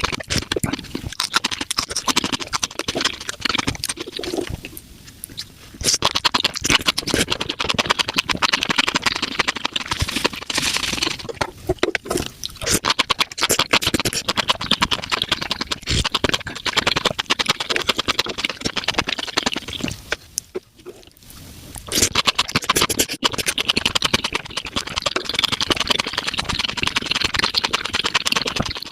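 Close-miked mukbang eating sounds of spicy mushrooms sped up fivefold: chewing and mouth noises run together into a dense, rapid crackle. It drops away briefly twice, about five seconds in and again about twenty-one seconds in.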